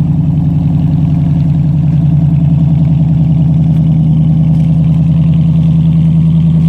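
Jeep Grand Cherokee's 5.7 Hemi V8 idling steadily through Cherry Bomb glasspack mufflers with the resonators cut off, a loud, even exhaust note.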